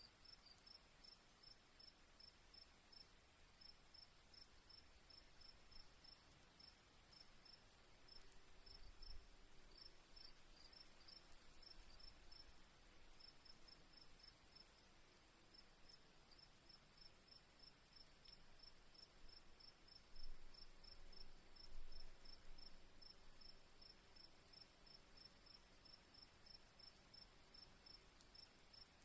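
Crickets at night: one steady high-pitched trill with a second cricket chirping in quick pulses over it, faint throughout. A few soft low thumps come in the middle and about two-thirds of the way through.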